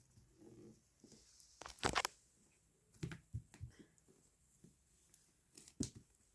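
Faint, scattered taps and scuffs of a cat playing with a small rope toy: a quick cluster of sharper taps about two seconds in, a few more around three seconds, and one more near the end.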